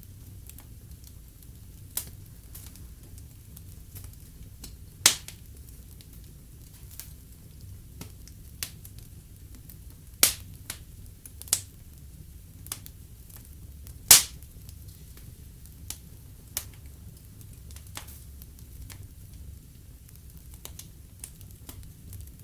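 Wood fire in a fireplace crackling, with scattered sharp pops over a low, steady rumble of the flames. The loudest pops come about five, ten and fourteen seconds in.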